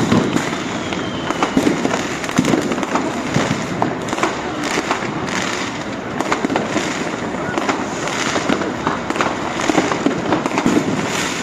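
New Year's Eve fireworks and firecrackers going off all around, a dense, continuous crackle with many sharp pops and bangs.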